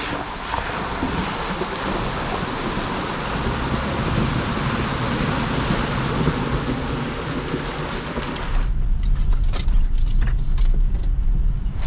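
Jeep Gladiator driving a rough trail: a steady rushing of wind and tyre noise, then about two-thirds of the way in it changes abruptly to a deep low rumble of the running vehicle.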